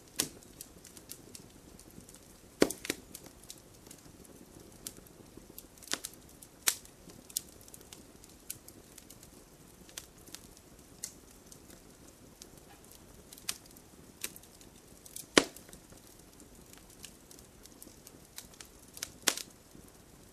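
Wood fire crackling in a fireplace: a faint steady hiss with irregular sharp pops and crackles, several loud snaps among them, the loudest about fifteen seconds in.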